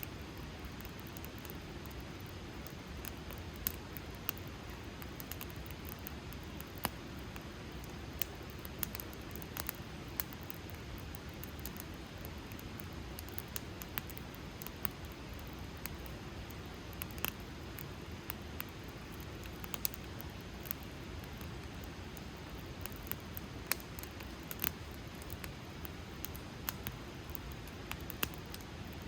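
Wood campfire burning: a steady low rush of flame with irregular sharp crackles and pops from the burning wood.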